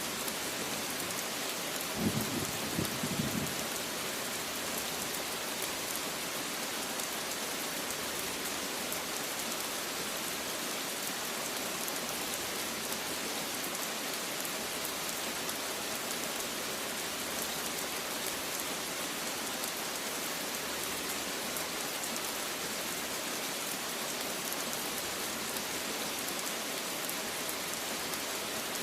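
Steady rain falling on a surface, an even hiss with no pauses. About two seconds in comes a brief low rumble, lasting a second or so.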